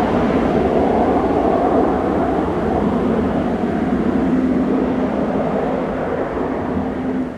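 Military jet aircraft on final approach to land, its engines giving a loud, steady rumble with a held droning tone joining about halfway through; the sound drops away abruptly at the end.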